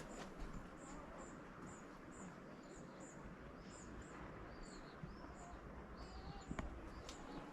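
Small birds chirping: a quick series of high chirps, about two to three a second, with lower arching whistled notes mixed in.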